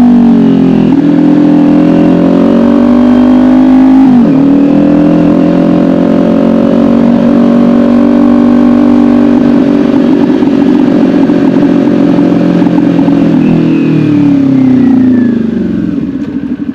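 Kawasaki Ninja 400's parallel-twin engine under way, with a brief dip and recovery in revs about four seconds in. It then holds a steady pitch before the revs fall as the bike slows, dropping toward idle near the end.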